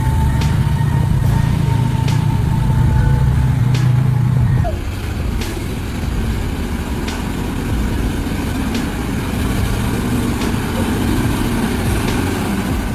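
Heavy truck engine running under load, with a strong low hum and a high whine that drop away about five seconds in. After that the engine carries on at a lower, rougher level.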